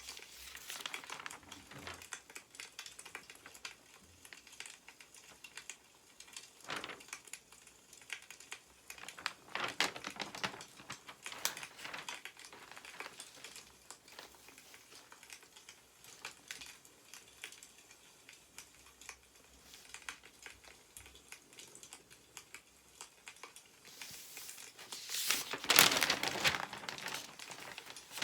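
Newspaper pages rustling as they are handled, the loudest swell, a page being turned, coming near the end, over light crackling clicks of a burning wood fire.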